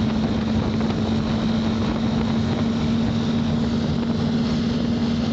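Motorcycle engine running at a steady cruising speed, a constant low hum, under the rush of wind over a helmet-mounted microphone.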